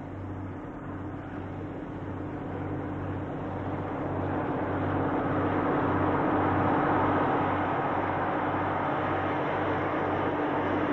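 Diesel freight train hauled by DF- and DC-class diesel-electric locomotives approaching and passing. The engines get steadily louder, peak about two-thirds of the way through and stay loud, with a constant low hum under the noise.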